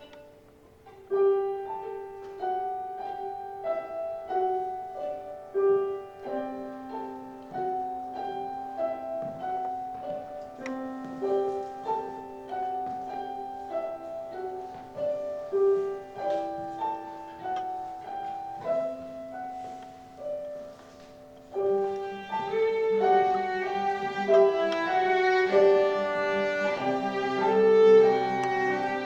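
Instrumental music, violin with piano accompaniment, playing a slow melodic passage without voices. About three-quarters of the way through it swells into a fuller, louder texture with lower strings joining.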